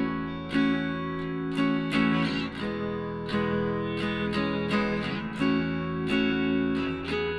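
Background music: acoustic guitar strumming chords at an even pace.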